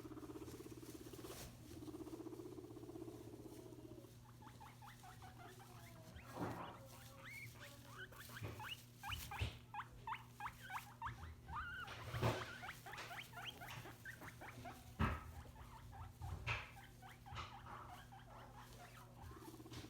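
Guinea pigs wheeking: a dense run of short, quick, rising squeaks for about ten seconds, over light rustling and small clicks, the calling guinea pigs make when they expect food.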